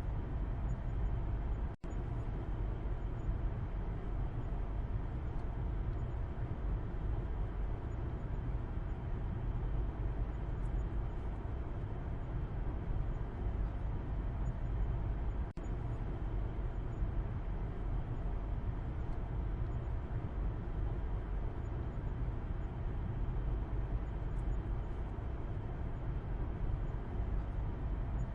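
Car interior noise heard from the back seat while driving: a steady low road and engine rumble with tyre hiss. The sound drops out for an instant twice, about two seconds in and past the middle.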